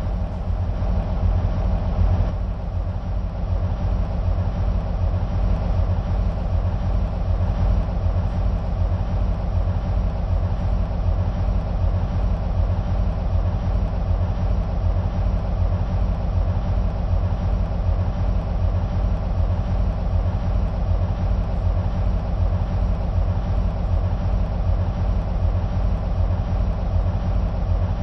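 EMD SW1500 switcher locomotive's 12-cylinder two-stroke diesel engine idling steadily with a deep, even rumble.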